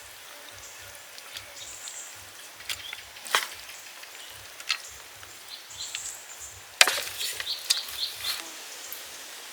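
A scattering of sharp clicks and cracks, like wood or shell being snapped or knocked, over a soft steady hiss. The loudest crack comes about seven seconds in, followed by a quick run of smaller clicks.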